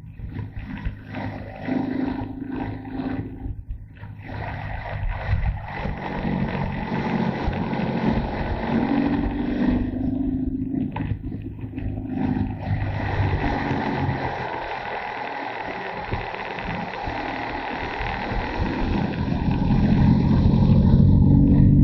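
Motorcycle engine running under changing throttle while riding, with wind rushing over the microphone. The engine note fades for a few seconds past the middle and comes back louder near the end.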